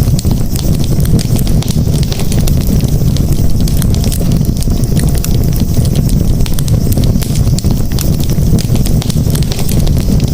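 Wood campfire crackling, with frequent small sharp pops over a steady low rumble.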